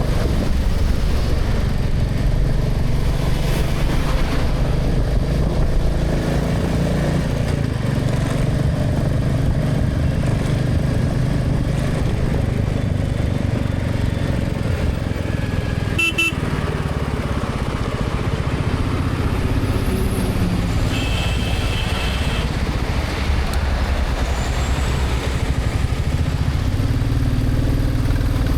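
Motorcycle engine running steadily under way, with traffic noise around it. A short horn toot sounds about sixteen seconds in, and a longer horn blast about twenty-one seconds in.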